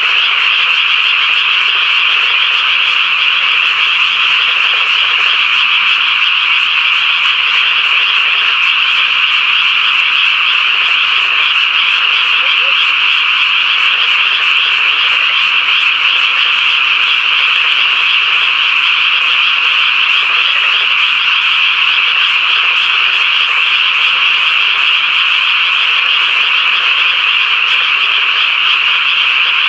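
Dense chorus of many frogs calling together at a pond, a steady, unbroken high trill with no single call standing out.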